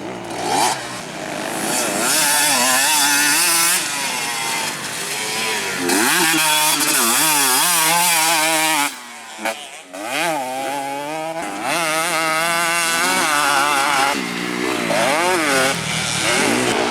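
Two-stroke motocross bike engines revving hard, their pitch swinging up and down again and again with throttle and gear changes. There is a brief drop about nine seconds in.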